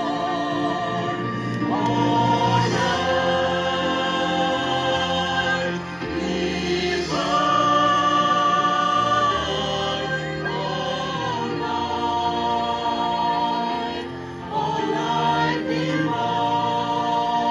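A choir singing a slow sacred piece in long held chords that change every second or two.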